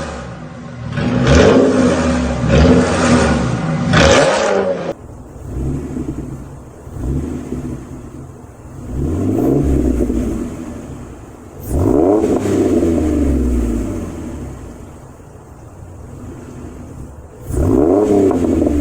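A Ford Mustang 4.0 V6 engine being free-revved in short, loud blips. About five seconds in, the sound cuts to a different recording, quieter and duller. There, longer revs rise and fall every two to six seconds.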